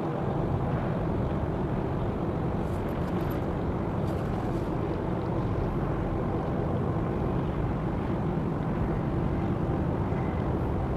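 Steady low rumble of a Panamax container ship under way as it leaves port, unchanging throughout.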